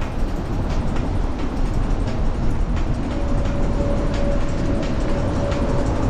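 Beach cruiser bicycle riding along, heard as a steady low rumble of wind and rolling tyres. Faint regular clicks about once or twice a second, and a thin steady tone in the second half.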